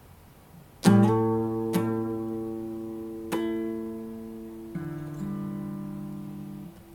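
Chords strummed on a plucked string instrument, each one left to ring and fade. The first starts about a second in, is struck again twice, and changes to a lower chord partway through before dying away near the end.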